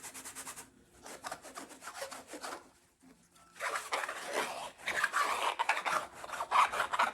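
A hat being scrubbed clean: quick back-and-forth rubbing strokes, in two spells with a short pause about three seconds in.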